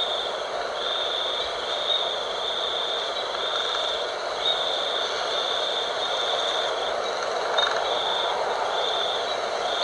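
Steady night wind, with a high-pitched tone over it that pulses on and off in stretches of roughly a second.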